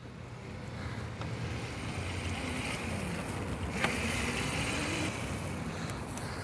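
Razor MX350 electric dirt bike's motor and chain drive running as the bike rides off, growing louder over the first couple of seconds, with a faint wavering whine in the middle. A single sharp click about four seconds in.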